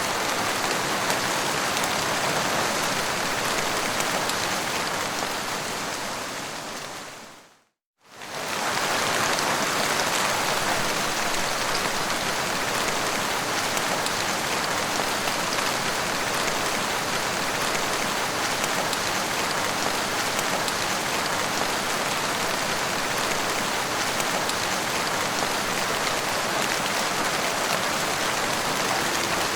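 Steady rain falling on a hard surface, a dense even patter of drops. About seven seconds in it fades out to a moment of silence and fades straight back in.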